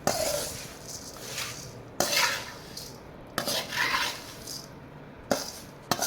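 A spoon stirring dry puffed rice in a metal pan: about five knocks of the spoon against the pan, each followed by a rustling scrape as the puffed rice is turned over.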